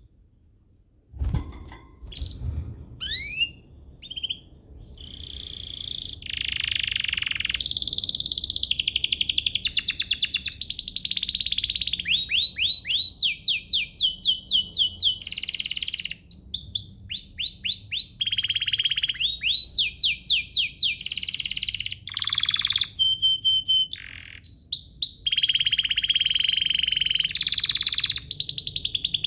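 Domestic canary singing a long, fast song of rapid trills, rising sweeping notes repeated several times a second, and buzzy rolls. A short thump comes about a second in.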